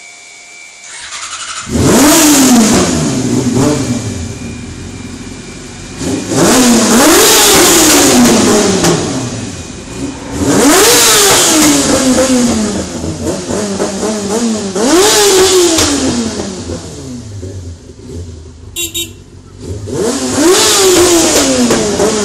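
Yamaha R6 inline-four engine through a LeoVince SBK aftermarket exhaust, revved hard five times: each time the pitch shoots up quickly, then falls away slowly, the sound echoing in a tunnel.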